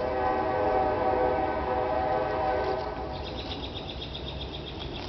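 A horn sounds one steady held note for about three seconds, then fades. A fast, high, ticking trill follows.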